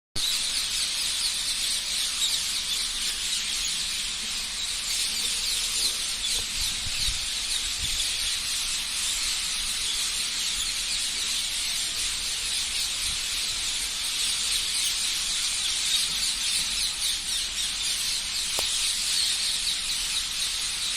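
A dense, continuous chorus of small birds chirping, many short high calls overlapping without a break.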